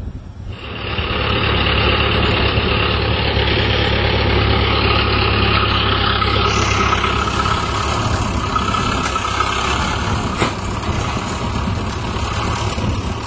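Tractor engine running steadily, coming in suddenly within the first second.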